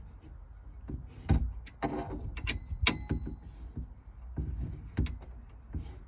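Irregular metallic clinks and knocks of hand tools and hardware as bolts are worked on a steel roll bar inside a Jeep JK, a few sharp clinks ringing briefly about two to three seconds in.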